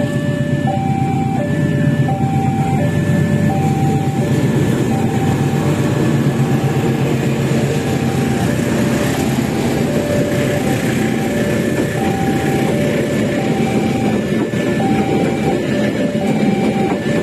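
Passenger train passing close by, hauled by a CC 206 diesel-electric locomotive: a steady rumble and clatter of the locomotive and then the coaches running over the rails. Over it a level-crossing warning alarm repeats two alternating high and low tones, a pair about every second.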